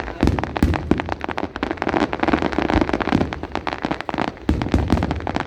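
Fireworks going off in a dense barrage: rapid overlapping crackles and pops with deeper booms mixed in, without a break.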